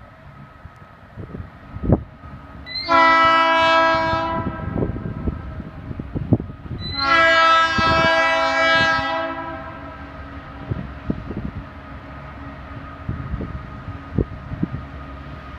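Diesel locomotive air horn sounding two long chord blasts, the first about three seconds in, the second about seven seconds in and longer, over the steady rumble of the passing train with scattered sharp knocks.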